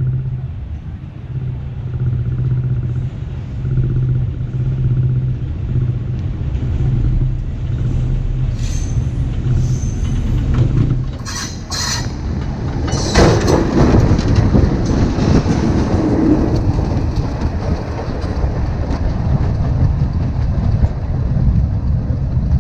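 Metre gauge diesel train on the line: a steady low engine hum, a few short sharp high sounds about halfway through, then louder rumbling and rail noise from just past the middle as the train comes through.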